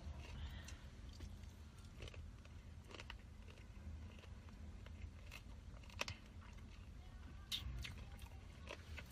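A person chewing and biting food close to the microphone, with a few short crunches spread through, over a low steady hum.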